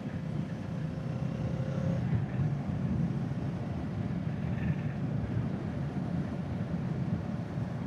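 Kawasaki Z650's parallel-twin engine running steadily while riding, heard with wind and road noise at the rider's microphone.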